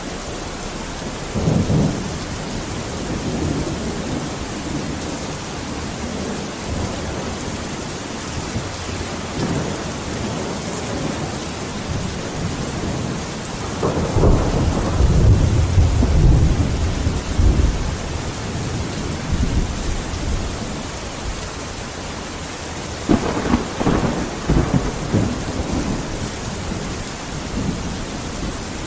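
Steady heavy rain with thunder rumbling through it: a short rumble about a second and a half in, a long deep roll of thunder near the middle, and a crackling peal near the end.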